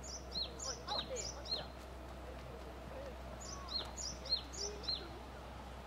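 A songbird singing two short phrases of repeated high notes, about four notes each and roughly three seconds apart, over a steady low outdoor rumble.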